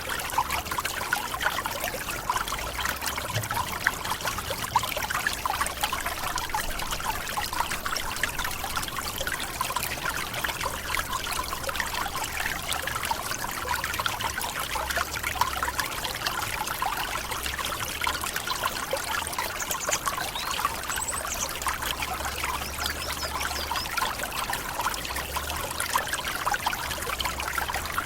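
Tropical forest waterfall: water falling, splashing and trickling steadily without a break.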